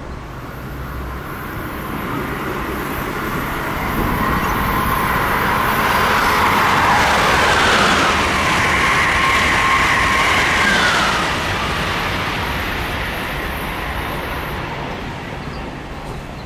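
Amtrak Acela Express high-speed electric trainset passing at speed: the rush of the train and its wheels on the rails builds, stays at its loudest for several seconds midway, then fades. A whine drops in pitch as the train goes by.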